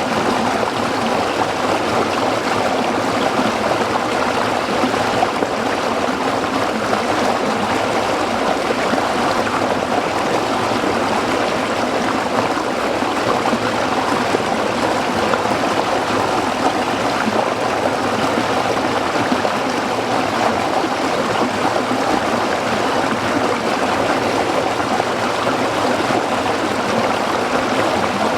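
A small stream flowing over rocks, a steady babbling and splashing rush of water that does not change.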